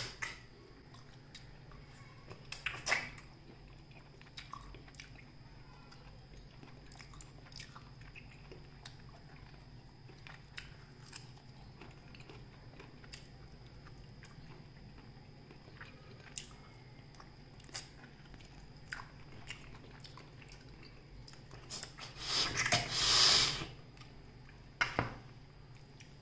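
A person chewing and biting on a mutton marrow bone (nalli), with scattered small mouth clicks and one louder noisy burst lasting about a second and a half near the end.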